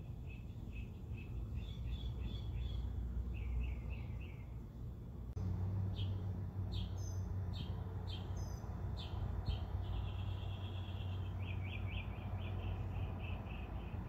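Small birds chirping, short high notes repeated in quick series and a few fast trills, over a low steady background hum that gets louder about five seconds in.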